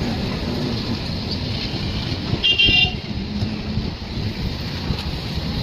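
Steady running noise of a moving train, with one short, high-pitched horn toot about two and a half seconds in.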